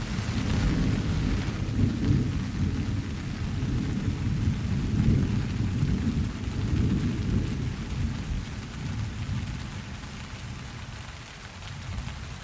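A long rolling rumble of thunder over steady rain, swelling in the first couple of seconds, rolling on, then fading away toward the end.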